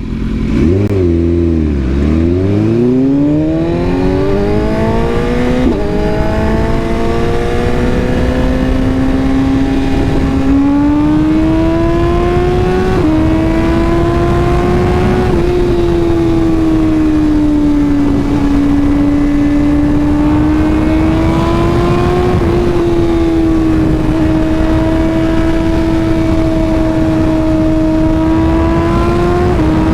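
Sport motorcycle engine accelerating hard, its pitch climbing and stepping down briefly at each upshift, over steady wind rush. The pitch dips and recovers near the start, and there are several shifts through the run.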